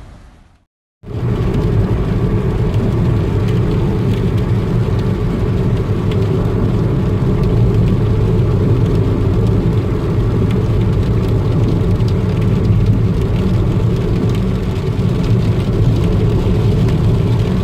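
Heavy rainstorm: a loud, steady rumbling rush of rain and wind, heaviest in the low end, starting about a second in after a moment of silence.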